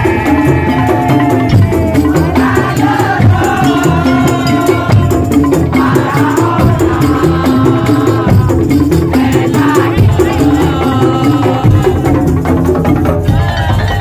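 Madurese tong-tong (ul daul) ensemble playing loudly: a dense, driving rhythm of drums and wooden percussion with rattling, under a wavering melody line.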